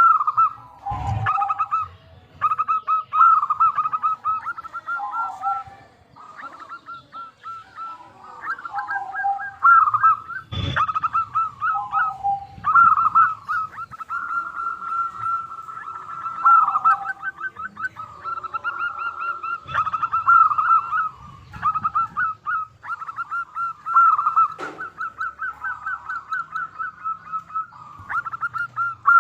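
Zebra dove (perkutut) cooing in repeated phrases of quick stuttering notes, phrase after phrase, a typical lure call. A few sharp clicks come through, about a second in, around ten seconds and near the end.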